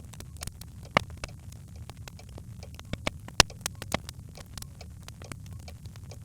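Birchwood fire crackling in a hearth: irregular sharp pops, the loudest about a second in and about halfway through, over a steady low rumble.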